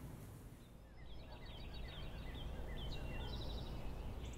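Faint birds chirping: runs of short, quick falling notes with a brief rapid trill near the end, over a low steady rumble.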